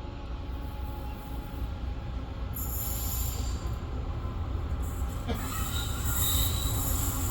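Freight train approaching, its low rumble growing steadily louder, with high-pitched metal wheel squeal coming in about halfway and getting stronger.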